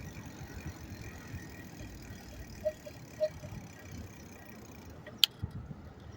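Outdoor noise during a bicycle ride beside a road: a steady low rumble of wind and passing traffic, with a sharp click about five seconds in.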